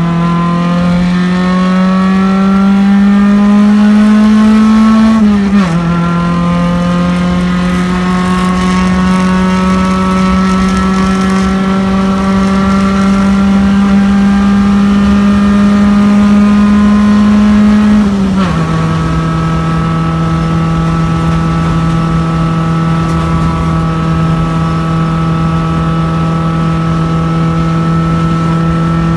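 Race car engine heard from inside the car under hard acceleration, rising in pitch through the gears, with an upshift about five seconds in and another about eighteen seconds in, after which it holds a nearly steady pitch.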